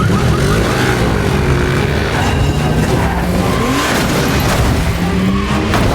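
Car engine revving hard and rising and falling in pitch during a high-speed chase, with tyre noise, in a dense film sound mix.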